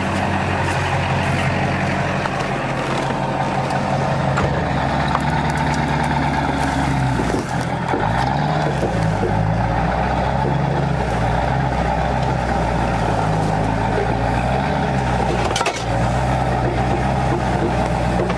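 Engine of the vehicle doing the pulling, running steadily while it backs up. Its pitch rises and falls several times about halfway through.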